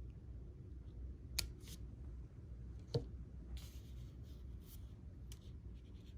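Fishing line and hook being handled while a knot is tied: two sharp clicks about a second and a half apart, the second the louder, then a few short scratchy rustles, over a low steady hum.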